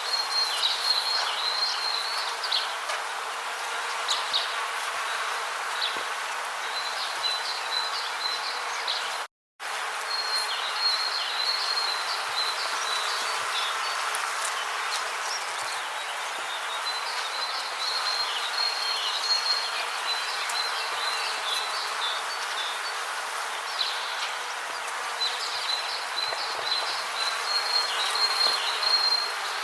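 Rainforest ambience: a steady hiss under repeated phrases of fast, high chirping trills, each a second or two long with short pauses between. The sound cuts out completely for a moment about nine seconds in.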